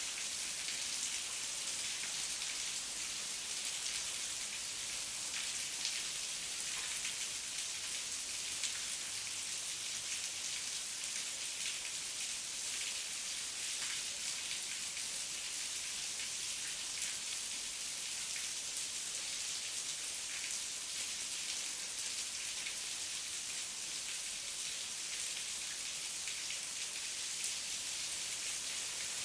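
Heavy rain falling steadily, an even hiss with the fine ticks of individual drops landing on surfaces.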